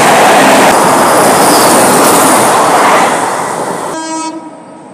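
Electric-hauled express train's coaches rushing past at speed with loud wheel-and-rail noise, which fades away over the last second or so as the train passes. Then a short horn blast from an approaching electric locomotive.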